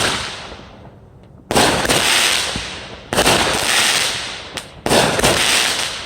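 Consumer fireworks going off outdoors in a series of sudden loud bangs, three in all, one every second and a half to two seconds. Each bang trails off in a fading noisy rush.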